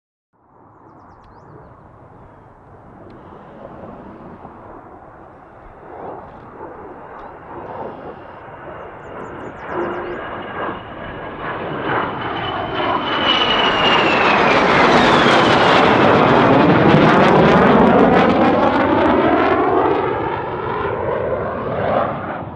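Jet aircraft approaching and passing overhead: a rushing engine noise that builds steadily to its loudest about two thirds of the way through, with a high whine that drops in pitch as it goes by, then easing off near the end.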